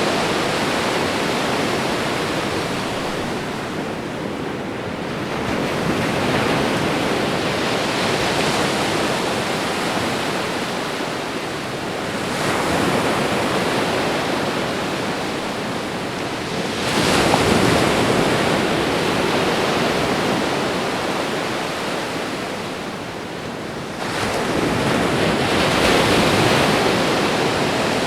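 Ocean waves washing onto a shore: a continuous rush of surf that swells and eases as each wave comes in. The sharpest surges come about two-thirds of the way through and again near the end.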